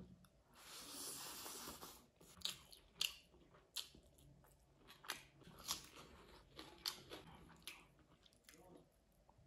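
Close-miked eating with the fingers: mouthfuls of rice and curry chewed with wet smacks and sharp mouth clicks, spaced irregularly about half a second to a second apart. A second and a half of soft hiss comes near the start.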